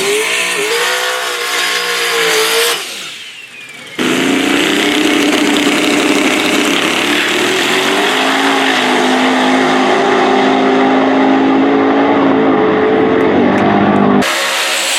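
Drag-race cars at full throttle making passes, their engine notes climbing in pitch. The sound drops away about three seconds in, comes back suddenly about four seconds in, and cuts off abruptly just before the end.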